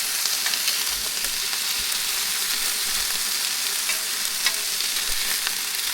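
Chicken sizzling steadily in a hot pan, an even frying hiss with a few faint ticks.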